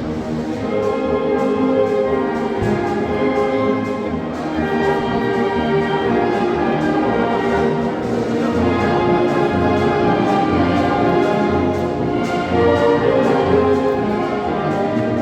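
Mixe banda filarmónica (wind band) playing: brass and woodwinds holding sustained chords that shift from one harmony to the next, with low bass notes joining in about halfway through.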